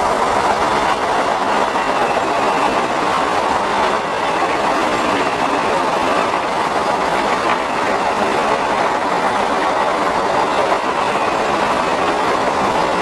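Vande Bharat Express electric multiple-unit trainset passing close by: a steady, continuous running noise of its wheels on the rails as the coaches go past.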